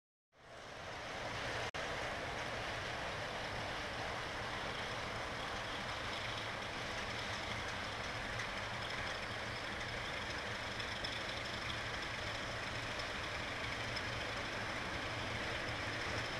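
Steady rumble and hiss of an approaching freight train, still distant, with a low hum and a faint high whine. It fades in at the start and grows slightly louder near the end.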